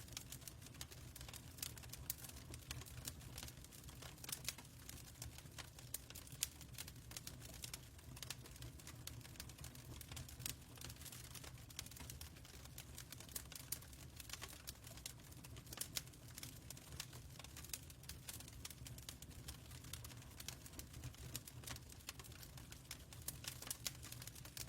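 Fireplace fire crackling: faint, irregular pops and snaps over a steady low rumble.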